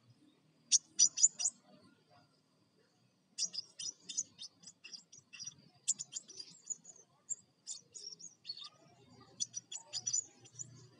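Crimson sunbird (sepah raja) giving rapid, high-pitched chattering chirps in quick runs: a burst of about five loud notes about a second in, then a longer run of chirps from about three and a half seconds, and another near the end.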